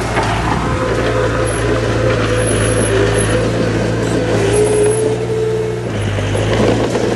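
Heavy diesel earthmoving machinery running steadily under load, a deep engine drone with noise from the machine working. A fainter higher whine sits on top, dips slightly in pitch and stops about six seconds in.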